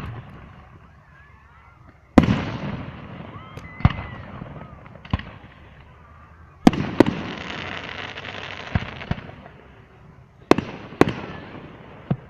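Fireworks going off: about nine sharp bangs at uneven intervals, several followed by a crackling hiss that trails off over a second or two.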